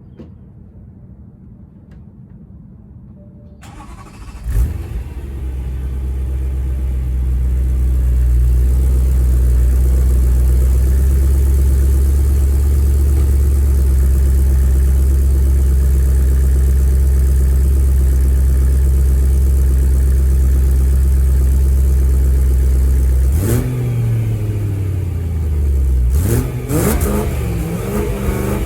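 BMW E93 M3's V8 breathing through an aftermarket GRWA valved exhaust. The engine starts about four seconds in, settles into a loud, steady idle, and is revved in a few short throttle blips near the end.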